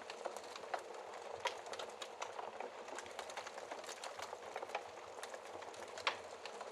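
Wood fire crackling in a fireplace, heard through its glass shield: a steady hiss of burning with irregular small crackles and a couple of louder pops, about one and a half seconds and six seconds in.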